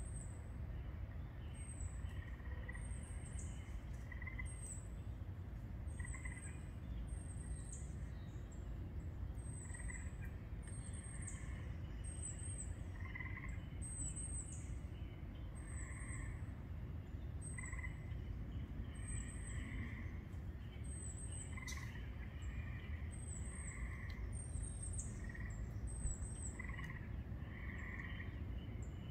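Woodland birdsong: a high, thin, down-slurred note repeated over and over, roughly once a second, with fainter lower chirps from other birds over a steady low rumble.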